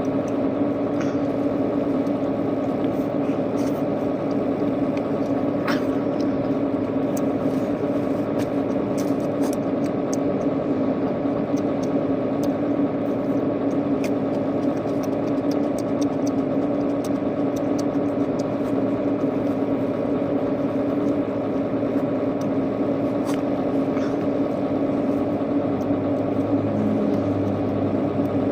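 Steady mechanical hum of a running motor or engine, even in level throughout, with a few faint clicks of eating over it.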